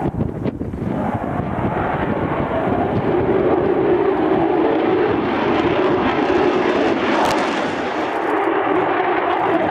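Military aircraft in flight, its engine noise growing louder over the first couple of seconds and then holding steady as it passes.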